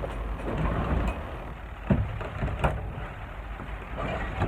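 Rain falling steadily on a polycarbonate greenhouse, with a couple of sharp knocks about two seconds in.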